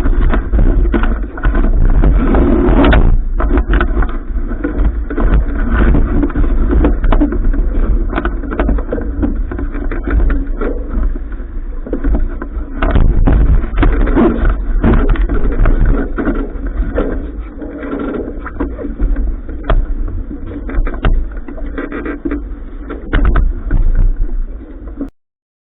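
Outdoor noise aboard a sailing yacht: wind buffeting the microphone as a loud, uneven low rumble, with irregular knocks and clatters. It cuts off suddenly near the end.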